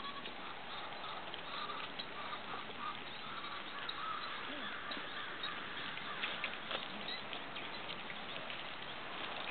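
Outdoor ambience: a steady hiss with faint repeated bird calls in the first few seconds and a few soft knocks later on.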